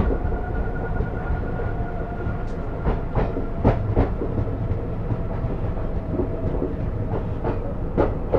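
Passenger train wheels rolling over the rails with a steady rumble and irregular sharp clicks from rail joints, as heard from on board. A faint steady whine fades out about halfway through.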